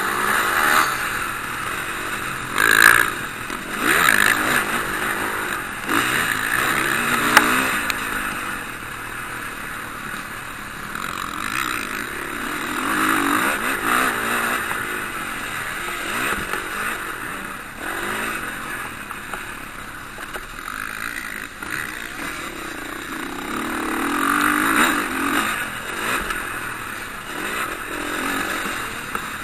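Motocross bikes running on the track, their engines revving up and down as they pass and fade, with several loud surges in the first eight seconds and another swell about twenty-five seconds in.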